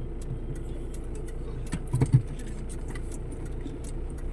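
Steady low hum of a car's engine and road noise heard from inside the cabin, with scattered light ticks and two soft knocks about two seconds in.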